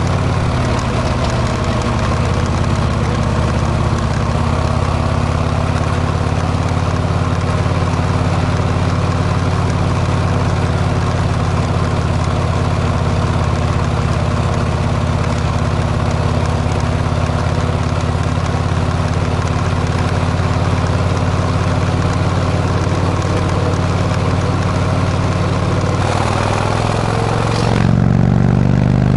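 Harley-Davidson V-twin exhaust through a Kesstech muffler, running at a steady engine speed, then changing and getting louder near the end.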